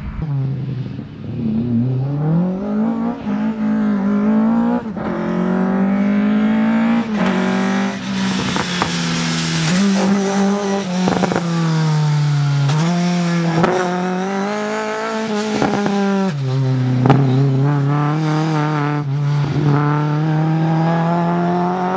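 Rally car engine working hard through a slalom, revving up and down continuously, its pitch climbing and then dropping sharply several times as it changes gear or lifts off, with tyres squealing at times.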